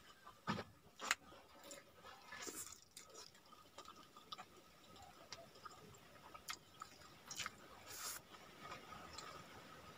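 Close-miked chewing and mouth sounds of someone eating fried fish and rice by hand: soft, wet smacks with small crunches and scattered clicks. Two sharper clicks come about half a second and a second in.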